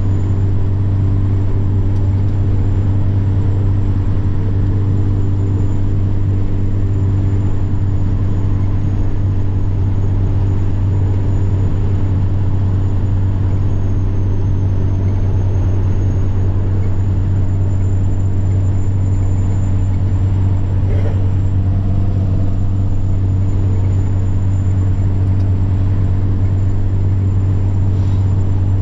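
Semi truck's diesel engine running steadily under way, a constant low drone, with a thin high turbocharger whine that drifts slightly up and down in pitch.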